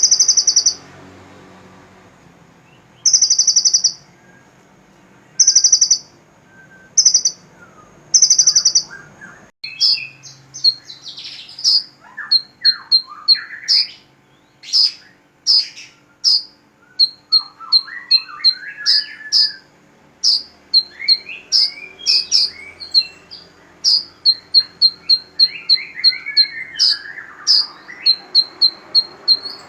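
Small songbirds singing: five loud, high trilled bursts, each under a second, then, after an abrupt change about a third of the way in, a fast run of short high notes broken by lower sweeping phrases.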